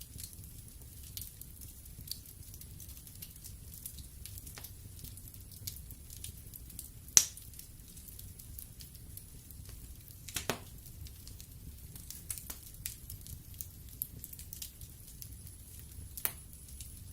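Wood fire burning in a fireplace: a low steady rumble of the flames with scattered crackles and pops of burning logs, the loudest sharp pop about seven seconds in and a cluster of cracks about ten seconds in.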